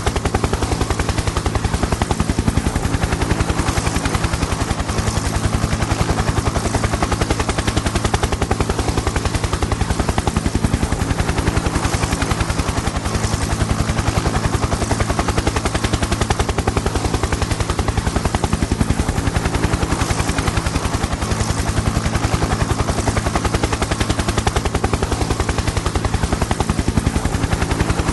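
Helicopter in flight: the main rotor's rapid, even chopping over a steady engine hum.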